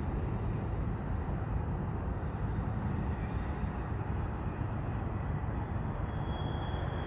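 Tail end of a slow-moving freight train rolling past, a steady low rumble of wheels on rail. A faint high whine comes in about six seconds in.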